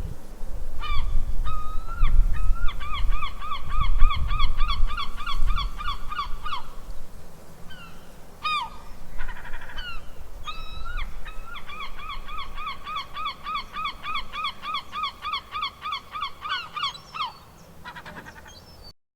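Geese honking: two long runs of short, quick honks, about four a second, with a few single honks between them.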